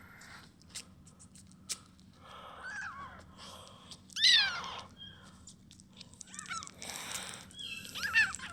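A young kitten mewing about four times in short, high-pitched cries that rise and fall, the loudest about halfway through. It is hungry and crying for milk.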